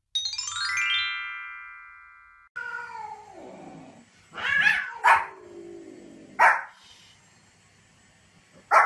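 A short jingle of rising chime notes, then a cat's long falling meow, followed by four sharp barks from a small spitz-type dog.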